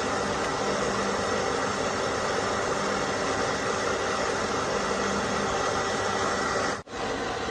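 Steady machine noise, even and hissing, with a faint hum under it. It breaks off sharply for an instant near the end, then carries on.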